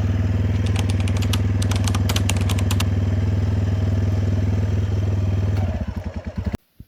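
Motorcycle engine idling steadily, with a quick run of sharp clicks over it in the first few seconds. Near the end the engine's beat slows into separate pulses and it cuts out abruptly as it is switched off.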